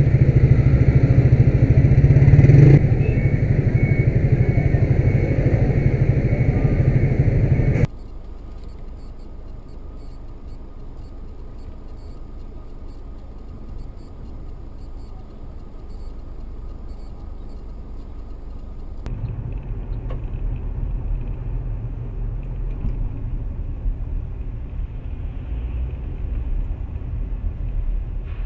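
Moving cars' engine and road rumble across several clips cut one after another: loud at first, much quieter from about 8 seconds in, and a low rumble again from about 19 seconds in, with no crash impact.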